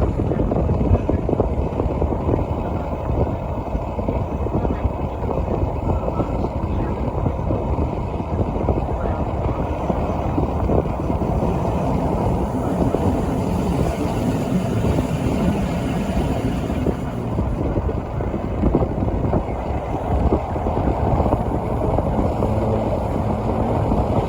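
Rhaetian Railway regional train running on the Bernina line, heard as a steady rumble of wheels and carriage.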